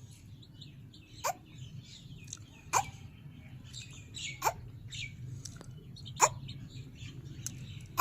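Captive birds calling: a loud, sharp call that sweeps down in pitch, repeated about every one and a half seconds, with softer chirping between the calls.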